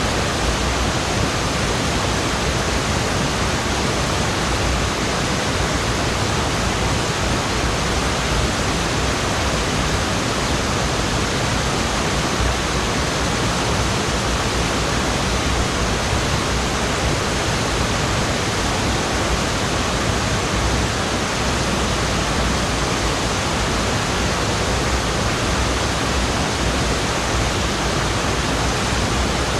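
Waterfall pouring steadily: a constant, even rush of falling water with no let-up.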